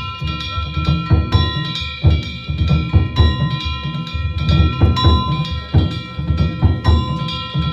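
Danjiri festival hayashi: taiko drums beating quick, dense strokes, with metal hand gongs (kane) ringing steadily above them.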